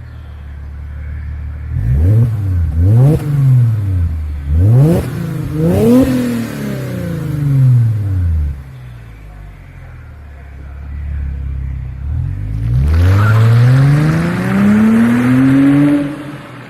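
Mercedes C230 (W204) 2.5-litre V6 through Vibrant straight-through mufflers and an X-pipe, idling, then blipped four times in quick succession, each rev rising and falling back to idle. Later it is revved up more slowly, held high for a few seconds, and dropped back near the end.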